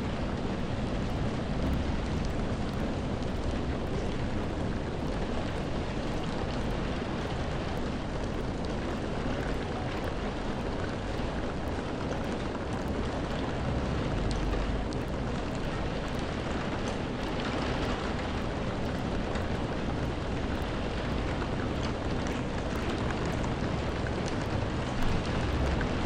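Steady rain falling with an even hiss, with a low rumble swelling up about halfway through and again near the end.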